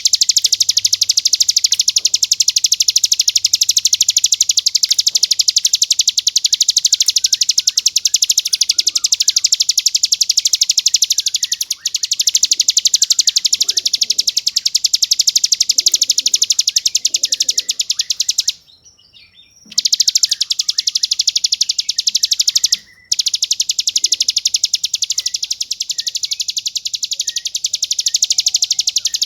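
Ciblek gunung, a prinia, singing a long, very fast rattling trill ('ngebren') with a crystal-clear tone. It breaks off for about a second about two-thirds through, then picks up again.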